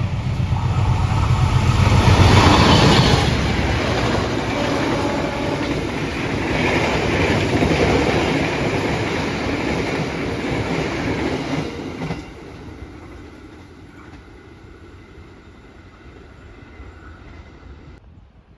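Train passing: a loud rumble and rattle of wheels on the rails, loudest about two seconds in. It drops off sharply after about twelve seconds, leaving a faint fading tail.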